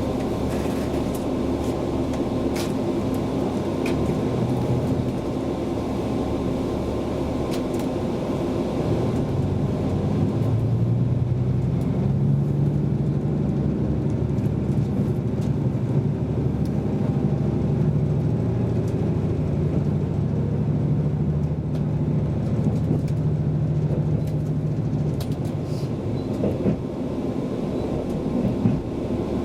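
Running noise of a limited express train heard inside the passenger car: a steady low rumble with occasional clicks. About nine seconds in, a low engine drone rises and holds for most of the rest, then drops away near the end.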